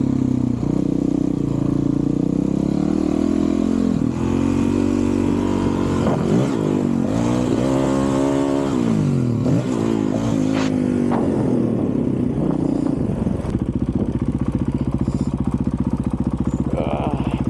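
A 2023 Honda CRF450RL's single-cylinder four-stroke engine through a titanium Yoshimura RS-4 exhaust, ridden hard with the revs rising and falling repeatedly, then settling into a steady low-rev chug about thirteen seconds in.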